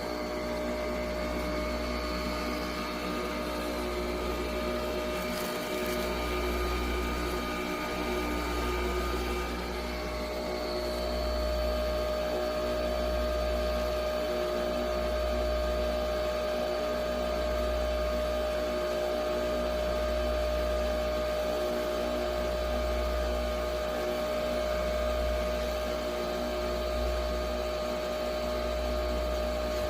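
Nespresso Vertuo coffee machine brewing: a steady whirring machine hum with several fixed tones over a low pulsing rumble, the tone shifting slightly about ten seconds in.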